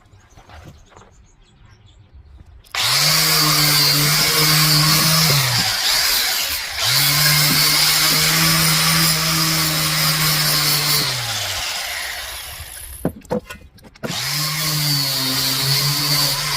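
Handheld electric power tool run in three bursts, with a hissing cutting or grinding noise over the motor hum. The motor winds down after each of the first two bursts is released.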